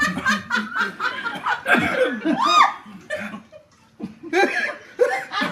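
People laughing in quick repeated bursts, with one high-pitched laugh about two and a half seconds in, a short lull, then more laughter.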